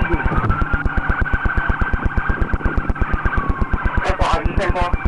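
Police siren wailing, a tone that glides slowly down and back up, over a rapid, very even low pulsing of about eight beats a second. A brief voice cuts in about four seconds in.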